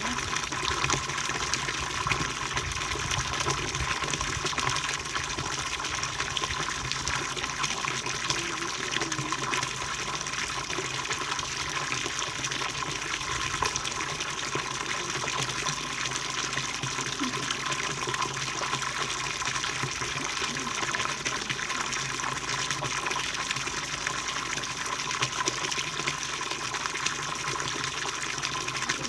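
Running water rushing steadily in an unbroken flow.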